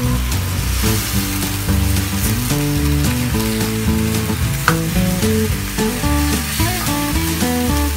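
Chicken pieces sizzling in sauce in a wok, stirred and turned with a spatula, with a steady crackling hiss. Background music with a stepping melody and bass plays underneath.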